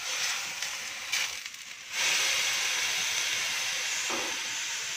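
Shrimp and vegetables sizzling in a hot stainless-steel wok, a steady hiss. It dips briefly, then about two seconds in comes back louder and holds.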